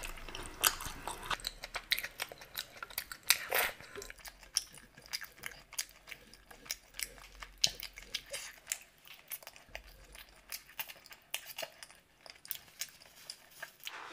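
A person eating by hand: close-up chewing and lip smacks, a rapid irregular run of wet mouth clicks, thickest in the first few seconds and thinning out toward the end.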